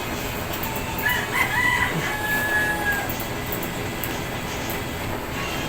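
A rooster crows once, starting about a second in: one long call that rises, holds steady and trails off after about two seconds.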